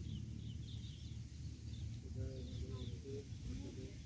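Small birds chirping in short, quick, high calls, with a few lower calls about halfway through, over a steady low rumble.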